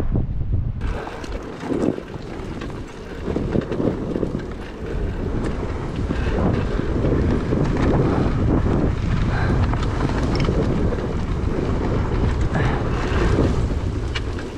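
Rumbling wind noise buffeting the microphone, turning suddenly brighter and hissier about a second in.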